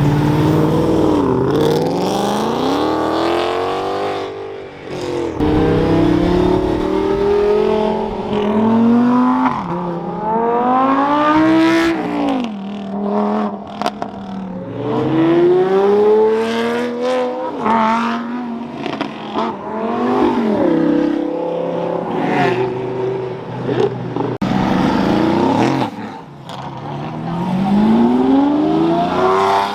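Several performance cars accelerating hard one after another, their engines revving up through the gears, the pitch climbing and dropping back at each shift.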